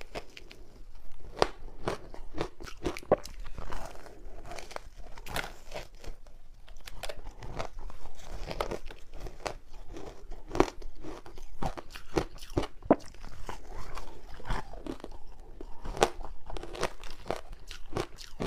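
A person biting and chewing frozen matcha ice balls: a steady run of irregular, sharp crunches as the ice cracks between the teeth.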